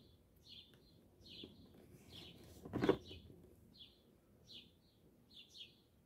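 A small bird chirping repeatedly: short, high chirps about one to two a second, faint, with a single knock about three seconds in.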